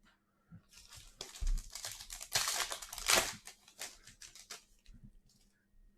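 Plastic wrapper of a Donruss trading-card pack being torn open and crinkled, a run of rustling and tearing for about four seconds, loudest a little past the middle.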